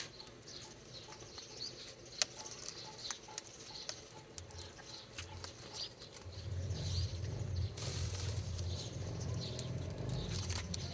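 Baby parrots making short, high chirps, with scattered clicks and scuffling. A low rumble joins about six seconds in.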